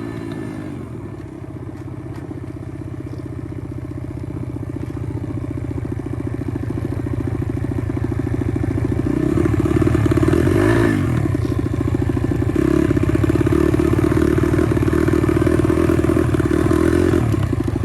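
Pit bike's small single-cylinder engine running under way, growing louder as the revs climb. About eleven seconds in, the revs drop briefly and pick up again, as at a gear change.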